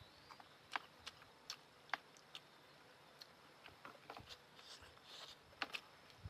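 Faint close-miked noodle eating: scattered soft clicks and smacks of chewing and mouth sounds, with a short soft hissing stretch about five seconds in.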